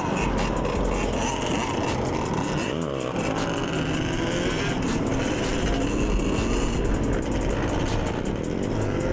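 Several motorcycle engines running together, their revs rising and falling now and then.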